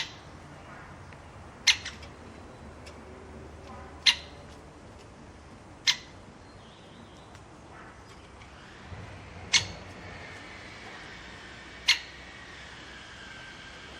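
A bird giving short, sharp calls, six of them about two seconds apart, over faint background sound.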